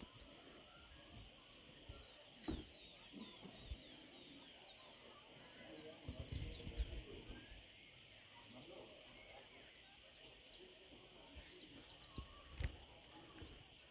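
Many small birds chirping in quick short calls over a steady high hiss and a fast, even ticking. A few low thumps come through, loudest about two-thirds of the way in.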